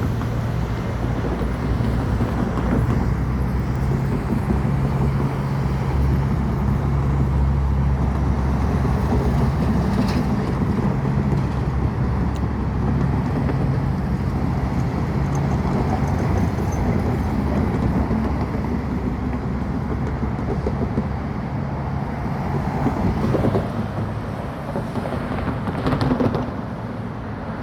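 Metrolink train passing a grade crossing, its F125 diesel locomotive's engine running with a steady low drone over rumbling wheel and rail noise. The sound eases off slightly near the end.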